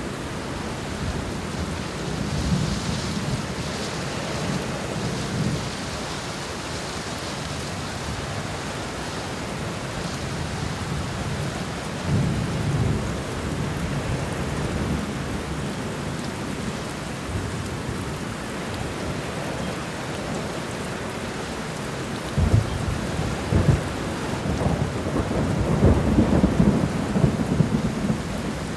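Thunderstorm: steady heavy rain with rolling thunder. The thunder rumbles a few times and grows louder near the end, with two sharp cracks shortly before.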